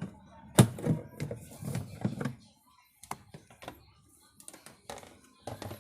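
A run of clicks and knocks, the loudest about half a second in, thinning out to scattered light clicks after about two and a half seconds: parts being handled while a washing machine is worked on.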